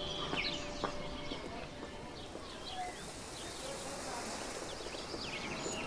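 Small birds chirping in many short, quick calls over a faint, steady background.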